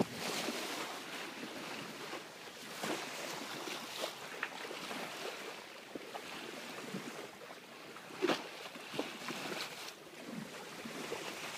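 Sea water washing and splashing along the hull of a sailboat under way, with occasional light knocks, the most distinct about eight seconds in.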